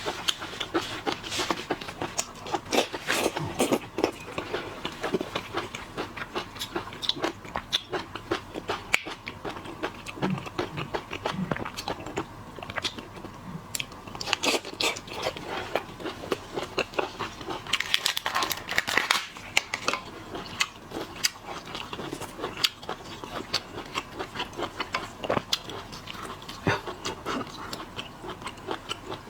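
Close-miked eating of seafood: continual chewing and biting, with many quick crunching clicks.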